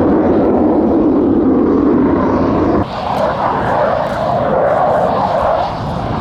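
Jet noise from an F-35A Lightning II's single F135 afterburning turbofan, loud and steady. About three seconds in the sound changes abruptly to a higher-pitched rush.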